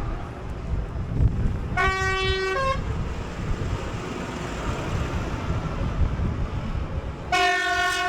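A vehicle horn from the procession tooting twice, two short pitched blasts about five seconds apart, over the low rumble of passing engines.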